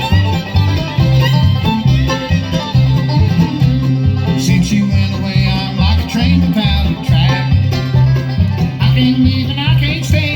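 Live bluegrass band playing the opening of a song, with banjo and guitar over a steady bass beat and a sliding melody line coming in about four seconds in.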